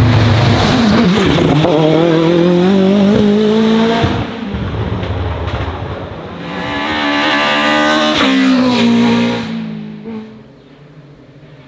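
Race car engine revving hard and climbing through the gears as it passes, dropping off abruptly about four seconds in, swelling again a few seconds later, then fading away near the end.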